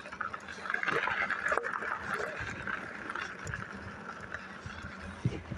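Rustling and wind noise on a phone microphone carried in a shirt pocket during a bicycle ride: a steady hiss with scattered small ticks.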